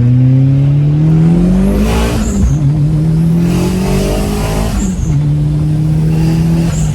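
Big-turbo all-wheel-drive Audi A4 accelerating hard at full throttle, heard from inside the cabin: the engine's pitch climbs, drops at gear changes about two and five seconds in, then falls as the throttle is lifted near the end. A short hiss comes at each shift and at the lift.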